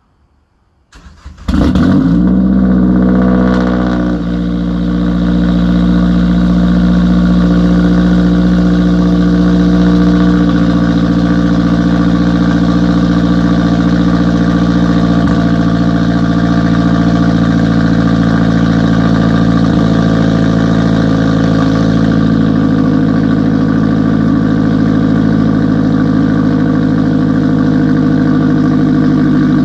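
Mazdaspeed3's turbocharged 2.3-litre four-cylinder with a fully straight-piped exhaust, starting up about a second and a half in. The revs flare and settle within a few seconds into a loud, steady idle.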